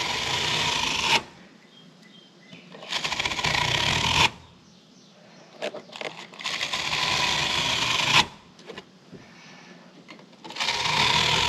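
A brush dragged through the metal fins of an RV air conditioner coil, making four long scraping strokes a couple of seconds apart.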